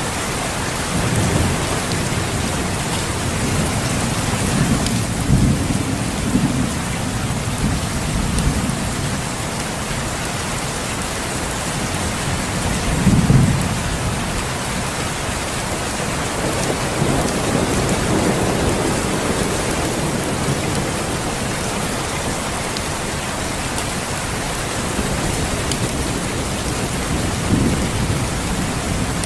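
Steady rain with low rumbles of thunder swelling and fading several times. The strongest rumble comes a little under halfway through.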